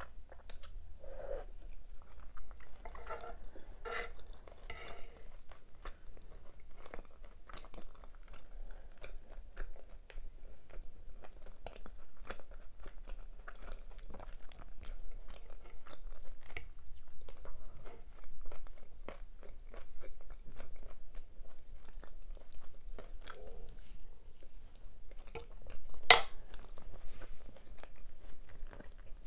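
Close-miked chewing of cheesy beef Alfredo and cheese buns: a steady run of small wet mouth clicks and crunches, with one sharper, louder click near the end.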